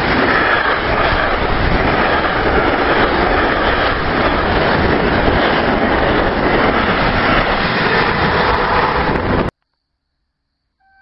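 Train passing close by at speed, a loud steady rumble with rail and wheel noise. It cuts off suddenly near the end, leaving near silence.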